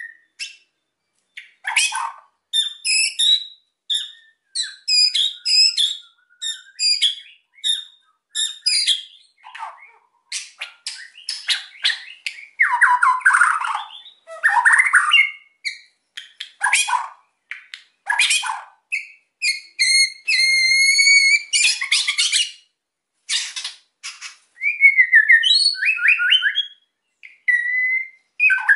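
White-rumped shama (murai batu) singing a long, varied song in an excited, agitated mood. It mixes clear whistled glides with fast, harsh rattling chatter notes (kretekan), broken by short pauses.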